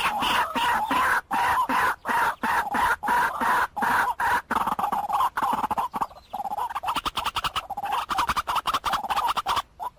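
White-breasted waterhen calling: a fast, continuous run of short repeated notes, the lure call used to draw waterhens to a trap speaker. It thins briefly about six seconds in and stops just before the end.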